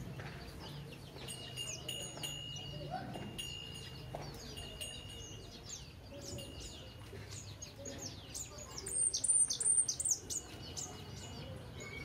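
Small birds chirping and twittering: rapid high chirps that fall in pitch, and a louder flurry about nine seconds in. A thin, steady high note repeats about once a second, and a low hum runs beneath.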